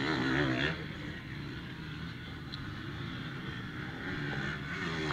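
Motocross bike engines running, a steady low drone.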